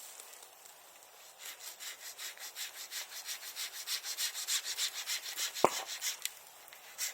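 Handsaw cutting through wood in quick, even back-and-forth strokes, about three or four a second, starting about a second and a half in and stopping just before the end. A single sharp crack stands out near the end of the sawing.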